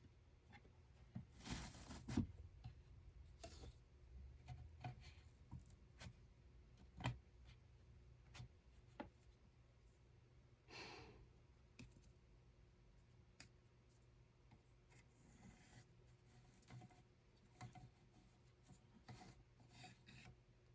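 Faint, irregular clicks and short rubbing and rustling sounds of small things being handled by hand, over a low steady hum.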